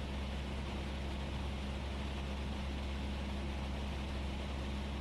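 Cessna 172S's four-cylinder Lycoming engine and propeller running steadily in flight, heard from inside the cockpit as an even low drone with a constant hum and a hiss of cabin noise.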